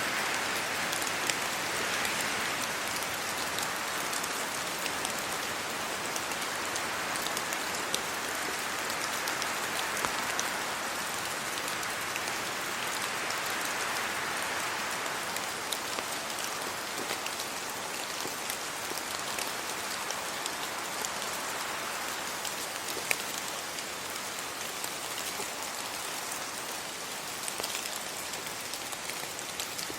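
Steady rain falling on leaves and the ground, an even hiss that swells and eases gently, with scattered sharp ticks of individual drops.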